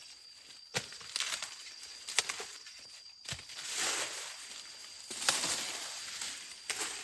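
Dry corn husks and leaves rustling and tearing, with several sharp snaps, as corn is handled by hand.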